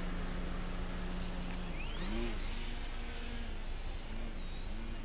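A biplane's engine droning steadily. About two seconds in, its pitch starts to waver up and down, with a high whine wavering along with it, over a steady rush of noise.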